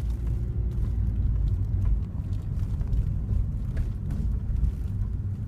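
Low, steady rumble of a car's engine and running gear, heard from inside the cabin.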